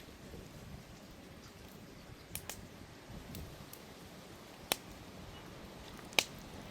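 A few sharp, isolated clicks over a faint, steady background: two close together about two and a half seconds in, then a single louder one near five seconds and another near six.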